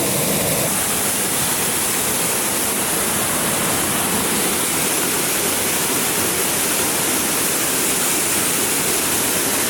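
Waterfall close by: a loud, steady rush of falling water that does not change.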